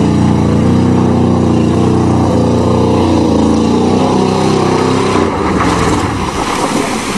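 1988 Chevrolet pickup's 305 small-block V8 running hard at high, steady revs while driving through mud. About five seconds in, the engine note turns rough and uneven and drops off. The ignition wires are wet.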